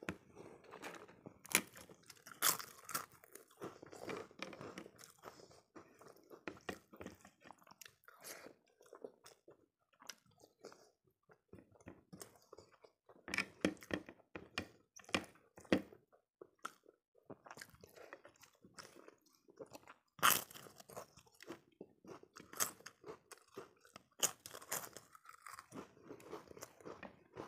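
Close-miked chewing with many sharp crunches of crisp fried papad, the crunches coming in clusters with quieter chewing between.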